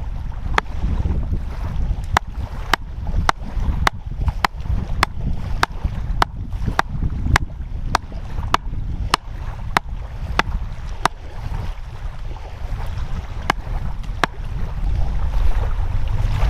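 A steady series of sharp knocks, a little under two a second, like repeated hammering or chopping strikes, over a low wind-and-surf rumble; the knocks pause briefly and stop shortly before the end.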